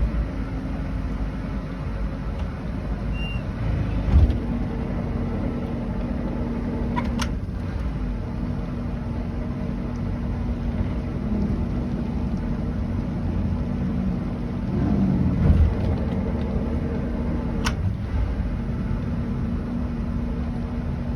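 Boat engine running at a steady idle, a constant hum over low rumble, with a couple of heavier bumps and two sharp clicks along the way.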